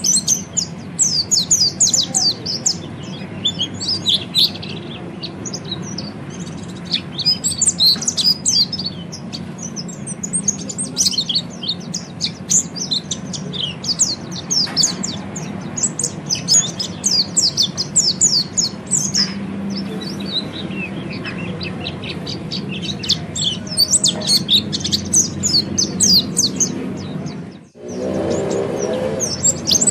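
Peleci (orange-headed thrush) twittering in quick, high runs of chirps and trills, coming in clusters with short pauses. This is the soft, rapid 'ngeriwik' warbling that keepers play to bring their own birds into song. A faint steady hum runs underneath, and the sound breaks off for a moment near the end.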